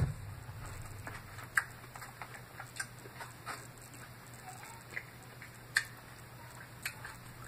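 Close-up chewing of a mouthful of salad: irregular soft crunches and wet mouth clicks, a few of them sharper.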